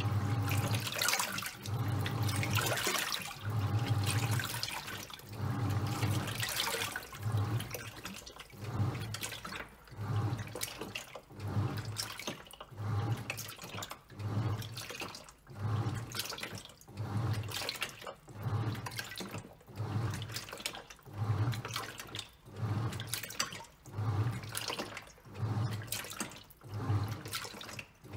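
Top-loading washing machine agitating a load of towels: the motor hums in short pulses about every second and a half as the pulsator turns back and forth, with water sloshing and splashing each time.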